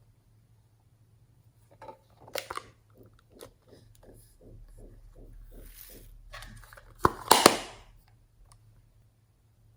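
Slime being mixed and worked by hand, making rhythmic wet squelches about four times a second. A louder burst of sharp crackling pops follows about seven seconds in.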